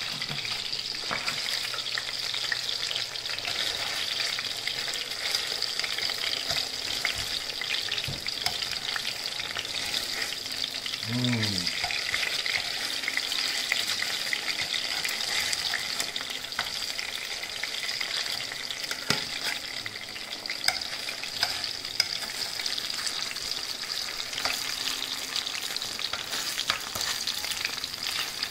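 Sourdough dumplings, still wet from boiling, sizzling and spattering in hot oil in a stainless steel pan: a steady crackling hiss. Metal tongs click against the pan now and then as the dumplings are turned.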